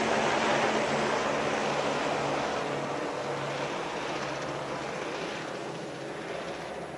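A vehicle running, heard as a steady rushing noise with a faint low hum, slowly fading.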